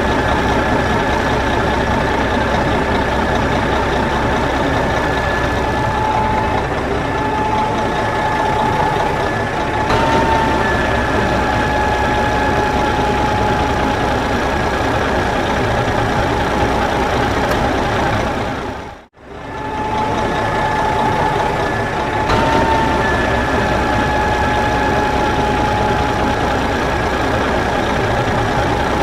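Mini tractor's diesel engine running steadily under load, with a steady whine over it. The sound cuts out for a moment about two-thirds of the way through and then resumes.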